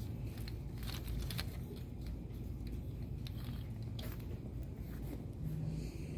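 Steady low background hum with a few scattered light clicks, mostly in the first second and a half.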